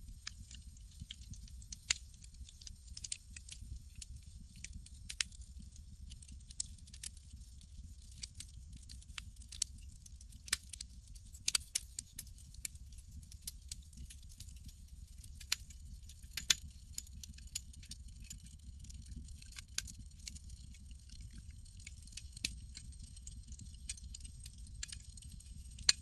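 Campfire crackling: irregular sharp pops and snaps, a few much louder than the rest, over a steady low rumble.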